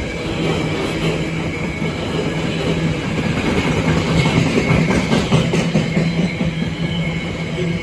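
A train running past at close range, its wheels clicking over rail joints, with the clicks thickest about halfway through.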